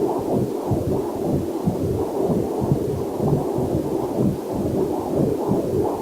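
Heartbeat picked up by a fetal Doppler monitor: a fast, rhythmic whooshing pulse, with a faint waterfall mixed underneath.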